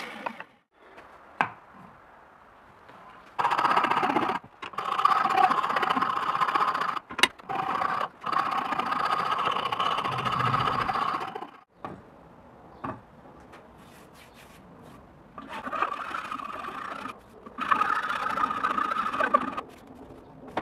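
A small power tool working material, run in several bursts of one to three seconds with a steady whine, stopping and starting, with a few sharp clicks in between.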